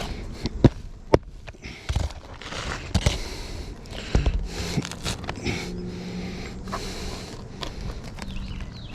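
Asphalt roof shingles being handled and scraped: rustling and scraping with two sharp clicks near the start, and a faint steady low hum in the second half.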